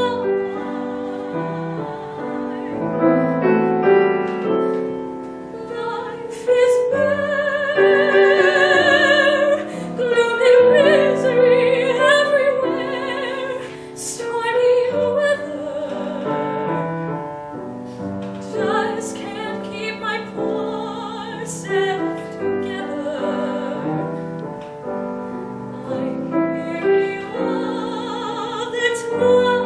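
A female singer sings a jazz standard in a trained, classical-sounding voice, with wide vibrato on the held notes, over piano accompaniment.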